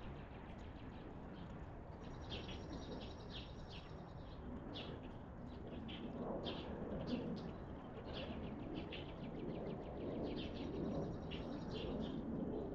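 Small songbirds chirping busily, with two high trills, over a low outdoor background rumble that grows a little louder about halfway through.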